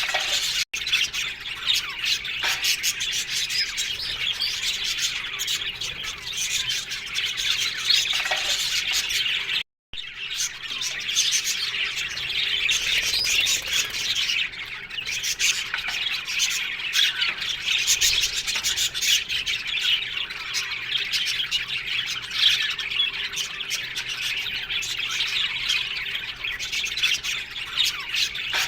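A colony of budgerigars chattering, chirping and squawking together without a break, many birds at once. The sound cuts out completely twice for a moment, once about half a second in and once about ten seconds in.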